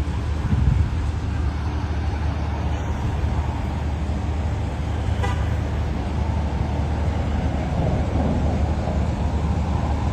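Steady low rumble of road traffic, with one brief short beep about halfway through.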